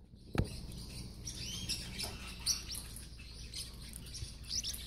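Parrotlet giving a few short, high chirps, with a single soft tap near the start.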